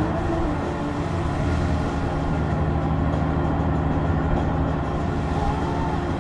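Honda Gold Wing's flat-six engine running steadily at cruise under way, with a constant rush of wind and road noise.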